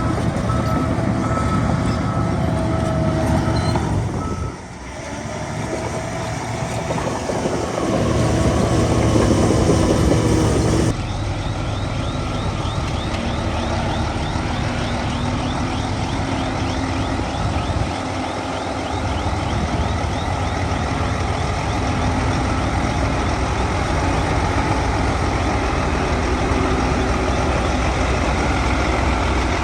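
Heavy diesel earthmoving machinery running steadily, a bulldozer and dump trucks at work, with an abrupt change in the sound about eleven seconds in.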